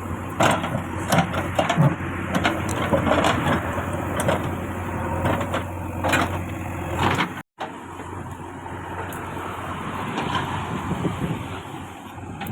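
Diesel engine of heavy earth-moving machinery running steadily, with repeated sharp clanks and knocks over it. The sound drops out for a moment a little past halfway, then the engine carries on, less clanky.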